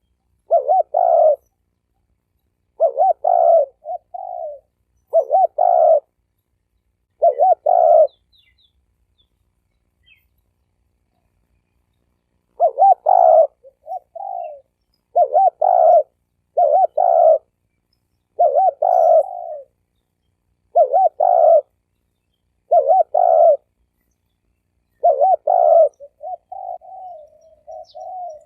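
Spotted dove cooing: short phrases of a few low coos repeated about every two seconds, with a pause of a few seconds in the middle. Near the end it shifts into a quicker run of short, soft notes. This is a decoy dove's call, used to draw in wild doves.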